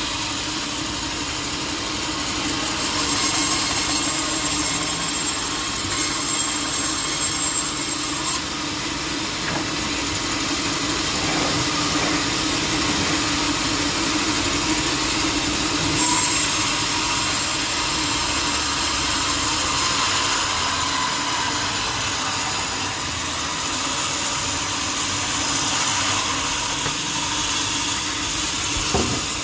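Sawmill saw running steadily, sawing a teak log.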